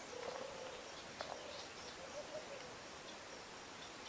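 A flying insect buzzing faintly, its hum wavering up and down in pitch, with faint high bird chirps and a single small click about a second in.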